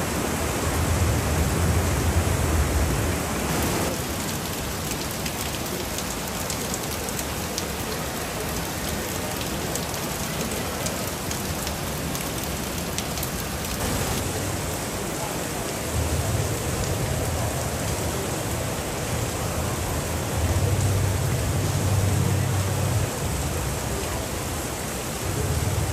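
Steady rain falling, an even rushing hiss with scattered drop ticks, and a low rumble during the first few seconds and again from about two-thirds of the way in.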